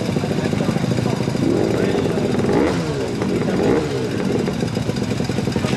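An engine running steadily, with voices talking over it in the middle.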